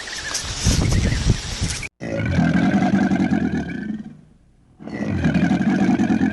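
An animal giving two long, low, rough calls, each about two seconds, with a short pause between. They follow a couple of seconds of low rumbling noise that cuts off abruptly.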